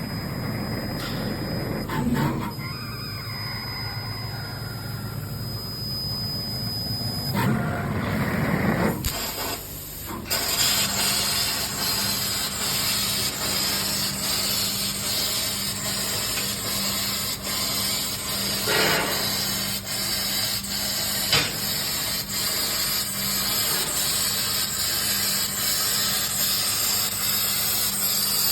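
A 2400 W fibre laser cutting 5 mm carbon steel plate with oxygen assist gas: a steady hiss of gas and cutting. For about the first ten seconds the sound is lower and rumbling; then a brighter, even hiss sets in over a steady low hum.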